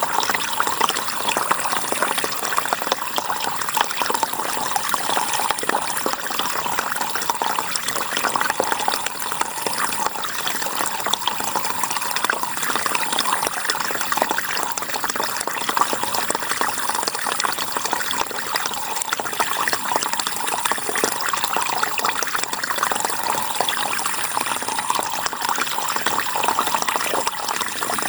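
River water running steadily, an even, unbroken rushing.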